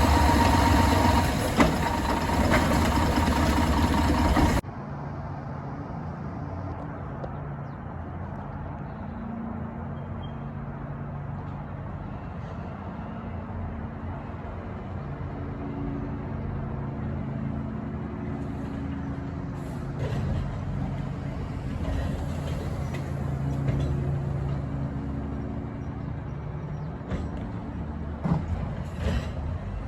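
Diesel engine of a front-load garbage truck running loud with a steady high whine for the first few seconds. It then cuts abruptly to a quieter, steady low engine hum with a few clicks and short hisses.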